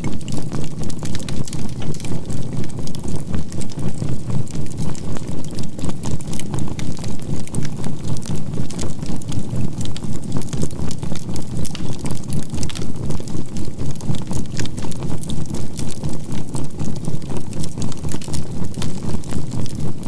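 Charcoal fire crackling over a dense low rumble, mixed with a steady 528 Hz healing tone and a binaural beat that makes the whole sound pulse evenly about three times a second.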